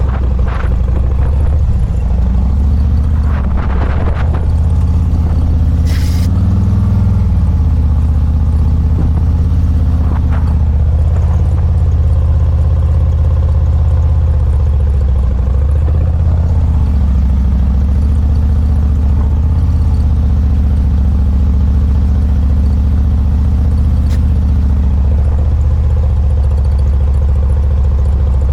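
Motorcycle engine running steadily, its pitch rising and falling slightly with small throttle changes, with a few short clicks and knocks.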